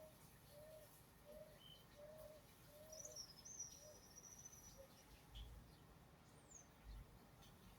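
Faint bird calls: a run of short, low, evenly spaced notes, then a thin high whistle about three seconds in and a brief high chirp near the end.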